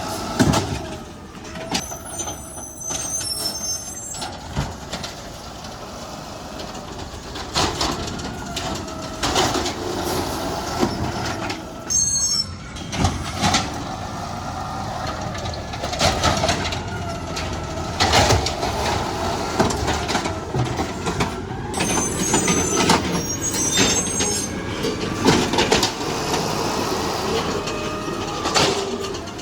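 Garbage truck at work, with a mechanical whine that keeps coming back and bursts of high-pitched squealing, several times. Knocks and clunks are mixed in.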